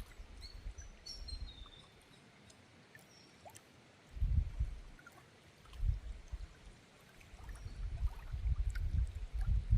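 Waterside ambience: faint running water with low rumbling gusts that come and go on the microphone, strongest near the middle and end, and a few faint high chirps about a second in.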